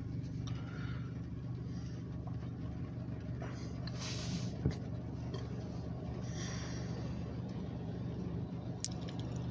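An engine idling: a steady low hum that holds an even pitch, with one sharp click a little before halfway through.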